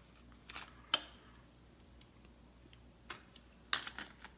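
A few scattered sharp crackles and clicks, the loudest about a second in, from a packaged thin chocolate-covered biscuit being unwrapped and eaten.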